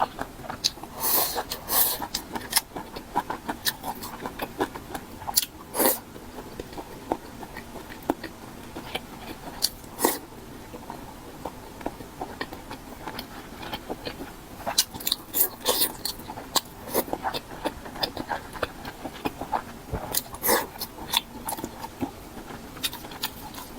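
A person chewing and biting food close to the microphone: irregular sharp clicks and wet smacks of eating, in clusters with a quieter spell around the middle.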